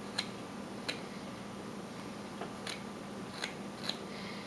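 Carving knife cutting into wood: about five short, sharp snicks spaced irregularly, over a faint steady background hum.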